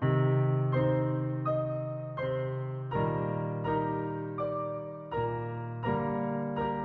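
Background piano music: slow, evenly spaced notes, about one every three-quarters of a second, each fading after it is struck, over held bass notes that change every few seconds.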